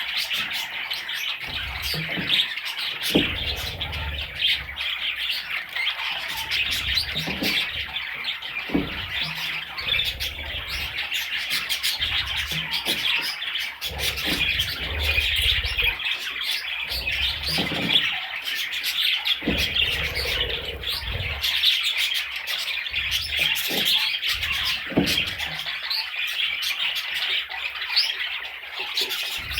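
Budgerigar chicks chirping continuously in a dense, overlapping chatter, with scattered soft knocks underneath.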